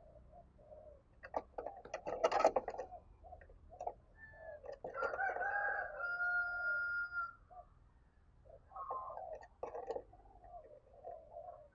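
Spotted doves cooing in short, low phrases, with a rooster crowing in one long held call about five to seven seconds in and a patter of sharp clicks about two seconds in.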